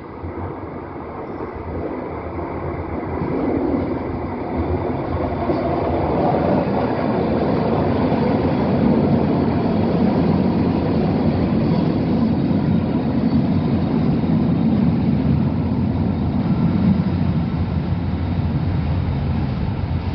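Scarborough RT (TTC Line 3) train, an ICTS Mark I car set, running along its track close by. The rumble grows louder over the first several seconds, stays loud with a faint steady whine over it, and eases a little near the end.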